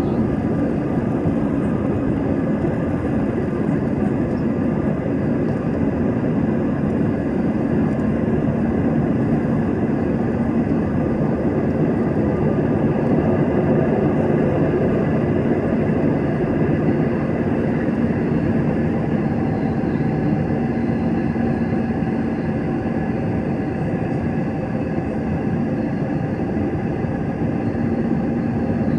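Steady airliner cabin noise heard from inside the passenger cabin: a constant rush of engine and air sound with a faint steady hum, with no rise or fall.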